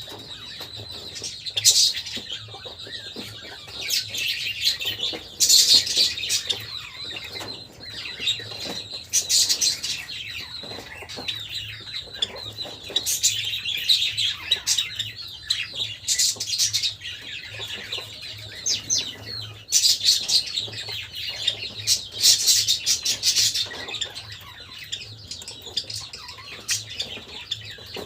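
Java sparrows chirping in short bursts of high notes every second or two, over a low steady hum.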